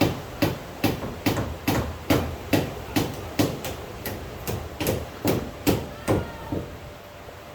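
Regular sharp knocks, a little over two a second, that stop about six and a half seconds in.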